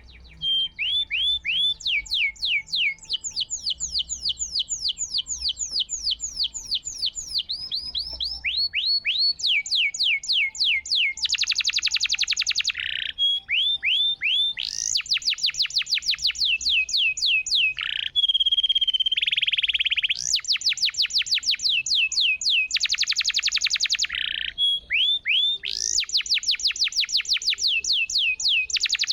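Domestic canary in full song: a loud, unbroken string of trills, each made of quickly repeated falling notes, with several very fast buzzing rolls in between. The phrase changes every couple of seconds.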